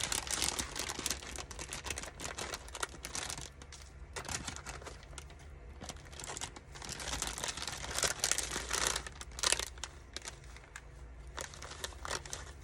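Crinkling and rustling of craft materials handled by hand, in irregular bursts with small clicks, as ribbons are rummaged through and picked over.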